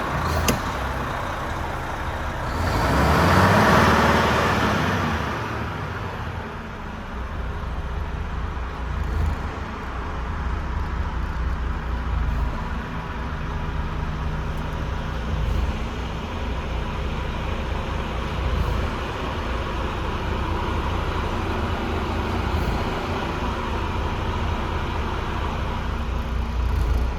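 Renault T460's 11-litre turbo diesel engine running steadily with a low rumble. About three seconds in, a louder whooshing swell rises and fades over a couple of seconds.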